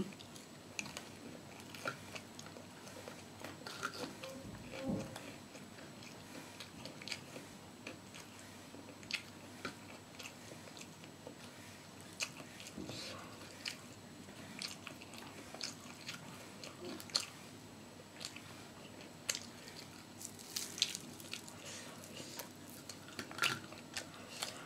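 Close-up mukbang eating sounds: a person biting and chewing crispy fried food, with short, sharp crunches every second or so.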